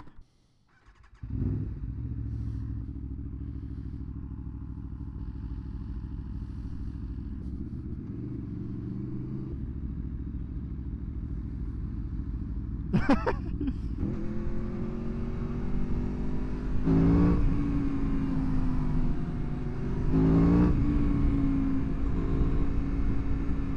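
Aprilia Tuono motorcycle running, coming in abruptly about a second in and holding steady for a while. From about two-thirds of the way through it accelerates, its pitch climbing and dropping back twice at gear changes.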